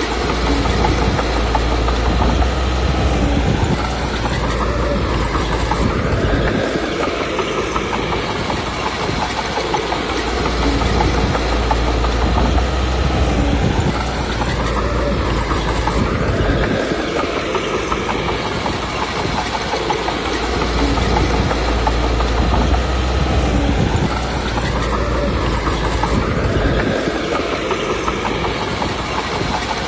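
Komatsu D21P crawler bulldozer working, its diesel engine pulling hard and easing off in a cycle of about ten seconds, with the clatter of steel tracks.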